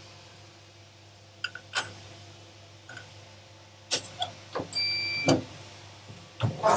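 Workshop handling noises: scattered clicks and knocks over a low steady hum, with a short high electronic beep about five seconds in.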